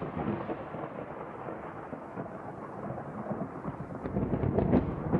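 Deep rolling rumble like thunder over a steady rain-like hiss, swelling louder with a few sharp cracks about four seconds in.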